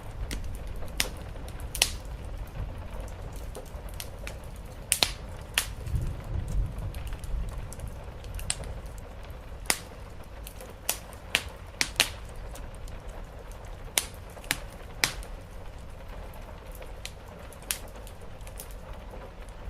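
Wood fire crackling, with irregular sharp pops and snaps over a steady low rumble and a soft hiss of rain.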